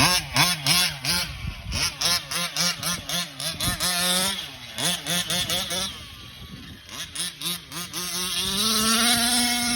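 Two-stroke gas engine of a 1/5-scale 30 Degree North RC short course truck revving up and down in quick throttle bursts. It drops quieter for a couple of seconds past the middle, then climbs in one long steady pull near the end.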